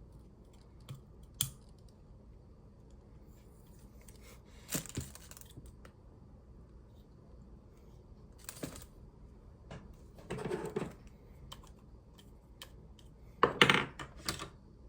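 Scattered clicks and taps with a few short rustling bursts, the sound of small objects being handled by hand; the loudest cluster comes near the end.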